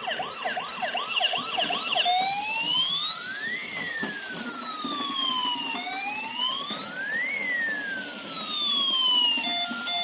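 Battery-powered toy ambulance's electronic siren. It gives a fast yelping warble for about two seconds, then switches to a slow wail that rises and falls about every three and a half seconds.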